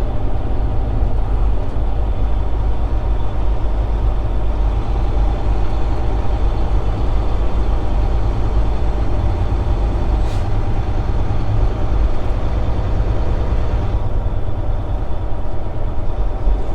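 Steady low rumble of a semi truck's diesel engine and road noise heard inside the cab while driving, with a brief high hiss or click about ten seconds in.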